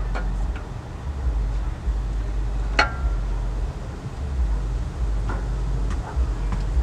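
Camshaft being slid out of the engine block by hand: scattered light metal clicks and knocks, with one sharper ringing clink about three seconds in, over a steady low rumble.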